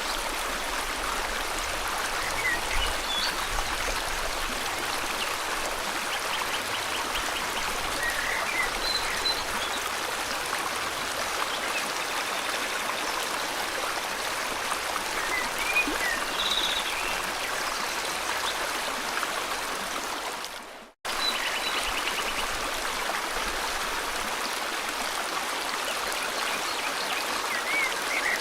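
Steady rushing of a flowing river, with scattered short bird chirps and a few quick trills over it. About three-quarters of the way through, the sound fades briefly to silence and cuts abruptly back in.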